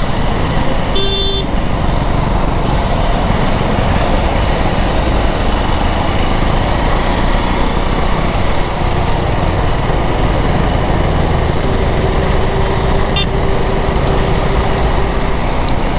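Riding noise from a KTM Duke 390's single-cylinder engine under way in traffic, largely covered by a steady rush of wind over the microphone. A vehicle horn toots briefly about a second in.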